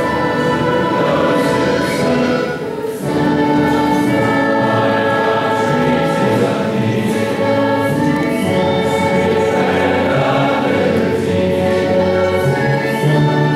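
A choir singing in sustained, held notes, with a brief break between phrases about three seconds in.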